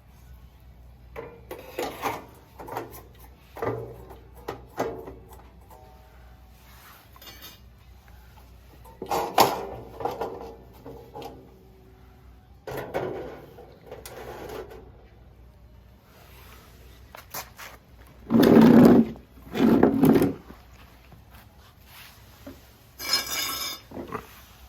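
Intermittent knocks, scrapes and rubbing of objects being handled, in irregular bursts with quiet gaps, the loudest two close together about three-quarters of the way through.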